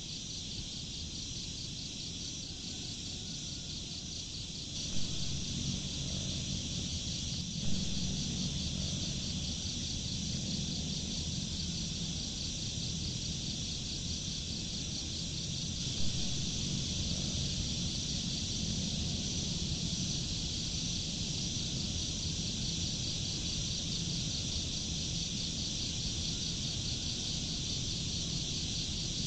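Crickets chirping in a steady, fast-pulsing chorus, with a low rumble underneath and a few faint knocks.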